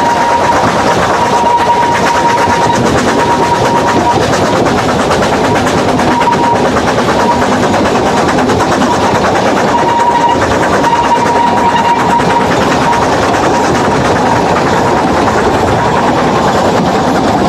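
Narrow-gauge steam train's coaches running over the rails, heard from an open carriage window, a steady loud rumble with no let-up. A thin high tone comes and goes several times as the train takes the curves.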